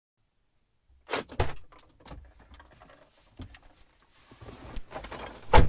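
Small clicks, rustling and a jangle of keys as someone moves about in a car, then a single heavy thump near the end.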